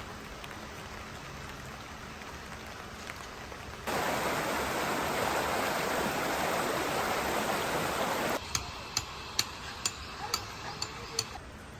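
Rain falling steadily, with a louder, heavier stretch of rain hiss in the middle that starts and stops abruptly. Near the end comes a run of about eight sharp ticks.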